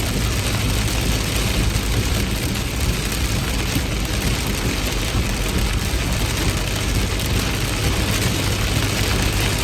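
Heavy rain falling steadily, an even hiss with a constant low rumble beneath it.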